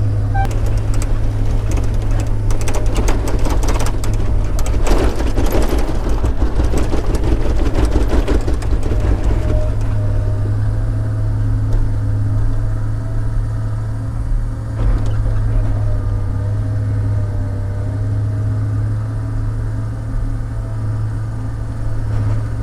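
Log loader's diesel engine running steadily, with a stretch of clattering and knocks from logs being handled in the first half. Later only the engine and a faint steady whine over it.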